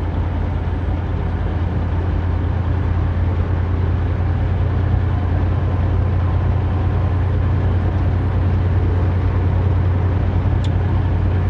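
Semi truck under way: a steady low diesel engine drone with road noise, getting slightly louder. A faint click near the end.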